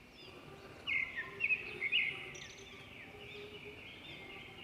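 Small birds chirping in the background: a steady scatter of short high chirps, with a louder cluster about one to two seconds in.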